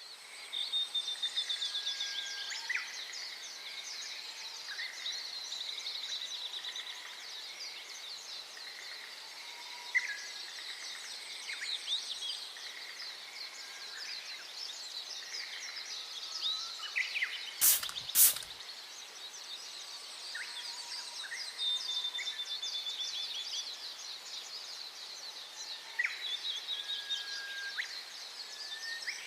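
Birdsong ambience: several birds chirping and trilling over each other, with a faint steady hiss behind. Two sharp clicks come close together about 18 seconds in.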